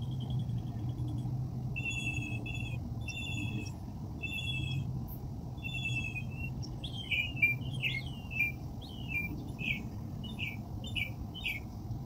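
Songbird calling: first a held whistled note, then a handful of short double-toned notes about a second apart, then from the middle on a quicker run of sharp down-slurred chirps. A steady low rumble runs underneath.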